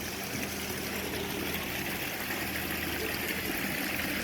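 Steady rush of falling water from a waterfall, with a low steady hum underneath.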